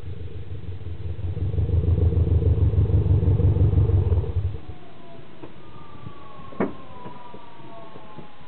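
Subaru GC8 Impreza flat-four boxer engine with an unequal-length exhaust manifold and Kakimoto Regu.06&R muffler, revved high with a pulsing, uneven exhaust note. The revs drop away suddenly about four and a half seconds in, leaving faint falling whines and one sharp click.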